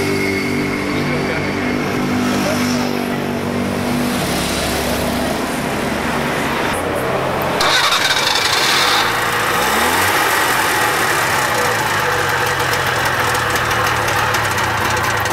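Small microcar engines running: a steady engine note for the first few seconds, then from about eight seconds in a louder small engine running, with a brief rise in revs around ten seconds in.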